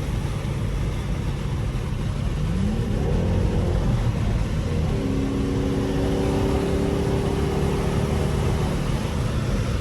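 Straight-piped Dodge Durango exhaust droning while driving on the highway. About two and a half seconds in it revs up in a quick rising pitch as it accelerates, then holds a steady, higher drone.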